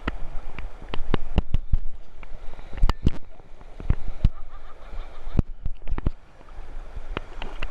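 Fast-flowing river water with irregular splashes and sharp knocks throughout.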